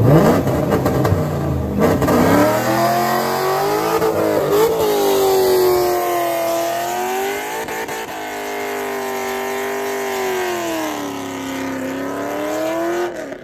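Fourth-generation Chevrolet Camaro doing a burnout on gravel, its engine revved hard and held high while the rear tires spin. The engine note rises and falls several times, and the sound cuts off suddenly at the end.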